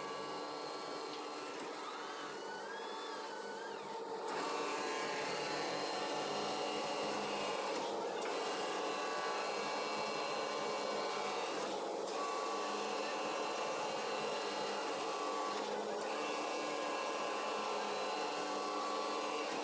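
Automatic fabric cutting machine running with a steady mechanical whir. It gets louder about four seconds in and briefly dips roughly every four seconds after that.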